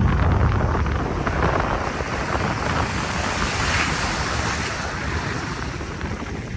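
Wind buffeting the microphone: a steady rushing noise with a heavy low rumble, loudest at the start and easing off.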